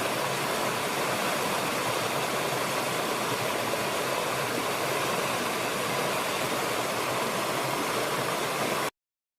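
Steady rush of running water, a stream or waterfall, cutting off abruptly near the end.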